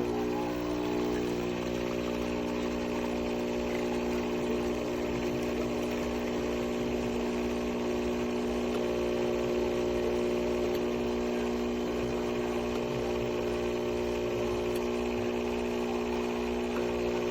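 Espresso machine's 20-bar pump running with a steady, even buzzing hum.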